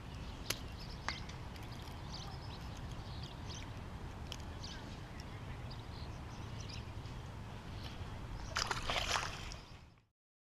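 Outdoor pond ambience: wind rumbling on an action-camera microphone with water sloshing. There are two sharp clicks early on and a brief louder rush of noise near the end, then the sound fades out.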